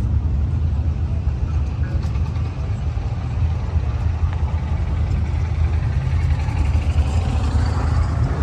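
Car engines rumbling low and steady, with a rising pitch near the end as an engine revs.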